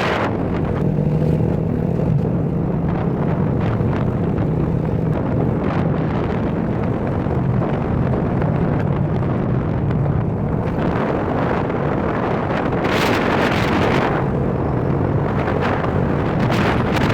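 A vehicle engine running steadily on the move, with road noise and wind buffeting the microphone, the wind gusting harder about two-thirds of the way through and near the end.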